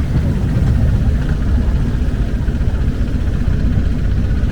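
Longtail boat's engine running steadily under way, a loud, even low rumble.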